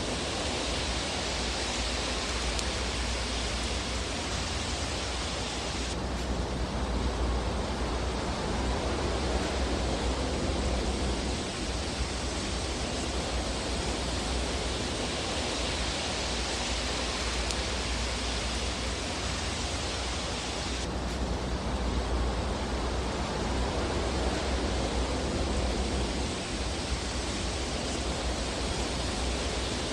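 Fireplace fire ambience: a steady hiss with a low rumble underneath and no distinct crackles standing out. The hiss changes abruptly about six seconds in and again about twenty-one seconds in, as at the seams of a looped recording.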